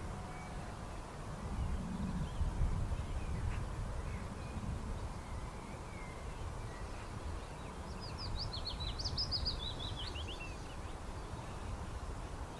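Birdsong over a steady low rumble of outdoor ambience, with a quick run of short, high chirps about eight to ten seconds in.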